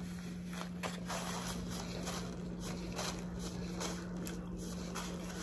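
Quiet eating sounds, soft irregular chewing and mouth smacks, over a steady low hum.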